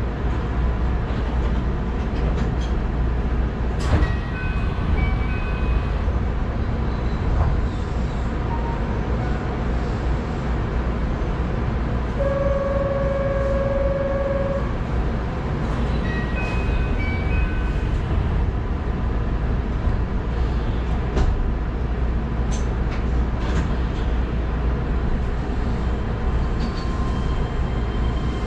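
Cab of an electric commuter train standing at a station: a steady low hum from the stopped train. Twice, a short run of electronic chime notes sounds, and near the middle a single steady beep tone lasts about two seconds.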